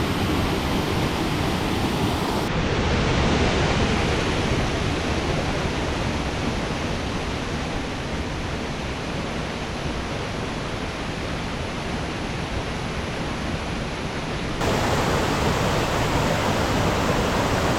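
Tiered waterfall pouring steadily, a dense, even rush of falling water. Its tone changes abruptly a couple of seconds in and again about fifteen seconds in, where it gets a little louder.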